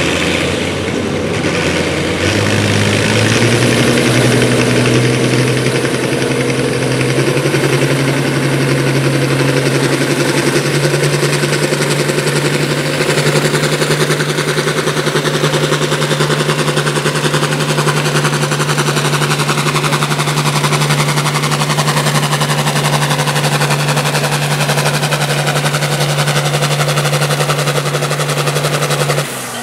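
Engine of a pulling tractor or truck revving up over the first few seconds, then held at high, steady revs with a rapid rattling exhaust note; it stops abruptly near the end.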